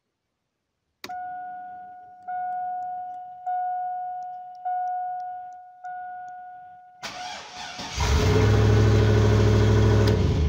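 A Chevrolet Silverado's dash chime dings about six times, evenly spaced, then the starter cranks and the engine fires and runs, started from a newly wired push-start button.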